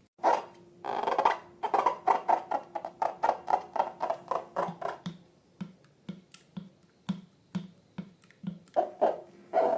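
Slime being squeezed and poked by hand, giving a fast run of sticky, wet clicks, about three to four a second, that thin out after about five seconds.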